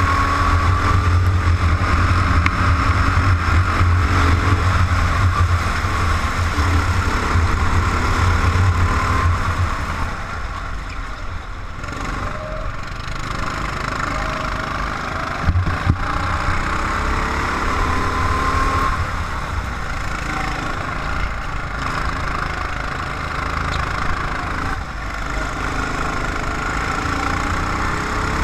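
Racing vehicle's engine heard onboard during a lap, its pitch rising as it accelerates and falling as it eases off, with heavy low rumble for the first third. There is one short knock about halfway.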